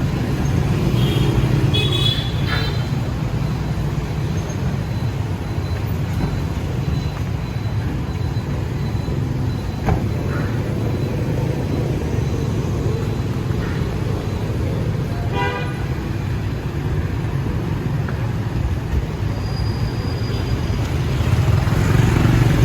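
Steady rumble of city street traffic, with a few short vehicle horn toots, one clear one about fifteen seconds in.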